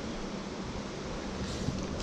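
Mountain stream water running steadily, with a faint splashing that starts about a second and a half in.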